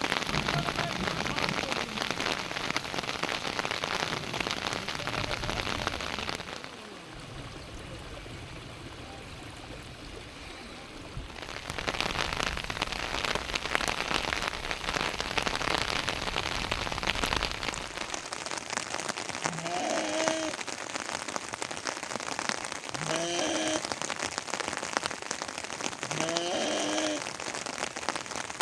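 Steady rain falling on surfaces, a dense hiss full of individual drop ticks, quieter for a few seconds in the first half. Over the rain near the end come three short animal calls about three seconds apart.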